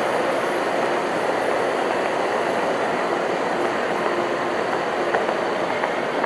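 Steady, continuous rushing noise with a faint steady hum underneath and a few light clicks near the end.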